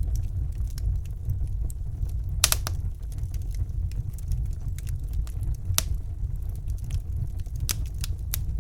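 Fire burning in a fireplace: a steady low rumble of the flames with a handful of sharp crackles and pops scattered through, one of them a quick double pop.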